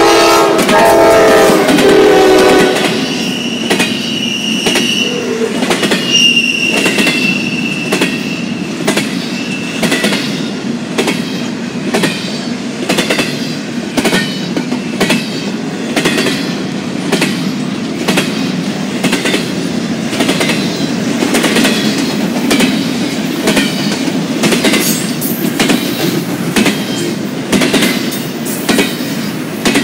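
Norfolk Southern diesel freight locomotive's air horn sounding a multi-note chord, cutting off about three seconds in, as the locomotives pass. Then double-stack intermodal well cars roll by with a steady rumble and rhythmic clacks of wheels over rail joints, with a high wheel squeal twice a few seconds in.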